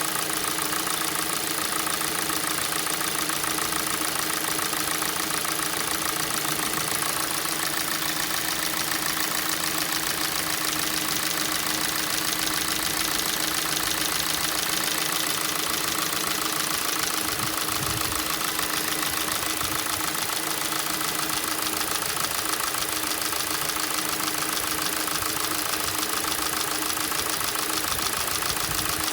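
Hyundai/Kia G4NA 2.0-litre four-cylinder petrol engine idling steadily with a rapid, even knock. This is the cold-start knock that the owner says fades as the engine warms up, cause unknown to him.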